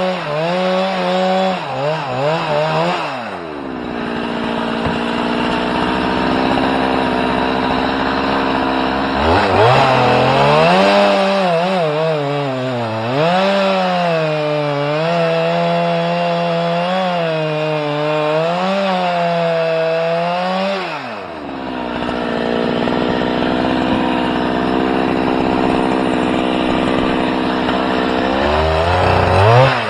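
Small engine revved up and held high, dropping to a steady idle about three seconds in. It revs again from about nine seconds to about twenty-one, its pitch wavering up and down, then falls back to idle and rises once more near the end.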